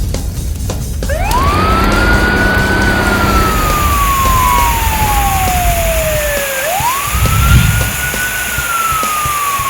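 Wailing siren over a low rumble. Each wail rises quickly, then slides slowly down over about four seconds, and it sounds twice.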